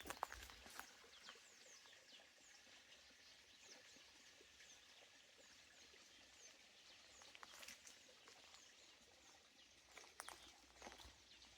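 Small songbirds chirping faintly, with many short high calls throughout. A few footsteps fall near the start and again near the end.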